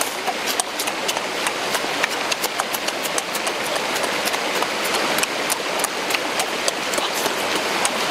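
Crisp crunching and chewing of fresh lettuce leaves, a quick irregular run of sharp crackles, over the steady rush of flowing stream water.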